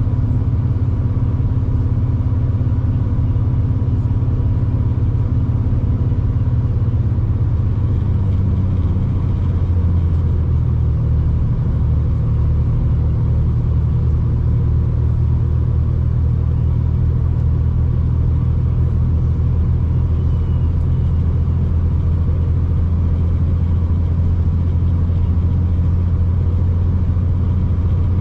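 V/Line diesel train heard from inside the carriage while under way: a steady low drone of engine and running gear. The engine note shifts lower about eight to ten seconds in.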